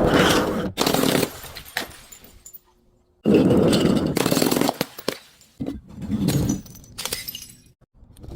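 Glass and other brittle objects cracking and crunching as they are crushed and broken, in several loud bursts. There is a short near-silent pause around three seconds in.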